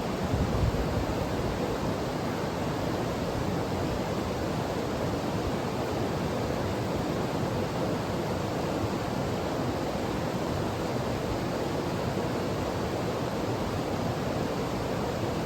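Mountain stream running steadily, a constant rush of water. A brief low rumble sits in the first second.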